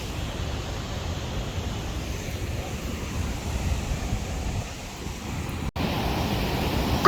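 Outdoor wind noise buffeting the microphone: a steady, low-heavy noise with no distinct events, cut off by a brief dropout about two-thirds of the way in.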